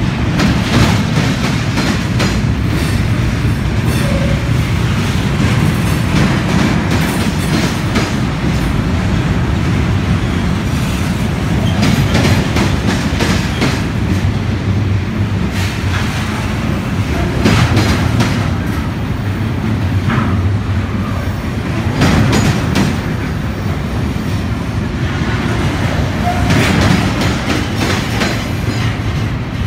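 Double-stack intermodal container train rolling past on articulated well cars: a steady low rumble of wheels on rail, with bursts of clickety-clack every few seconds as each set of wheels passes.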